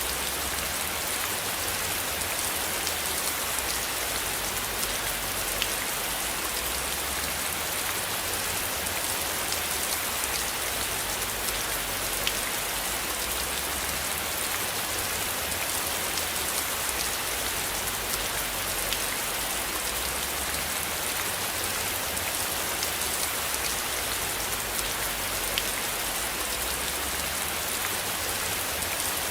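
Steady rain falling, an even hiss with scattered sharp drop ticks, over a low rumble that swells and fades.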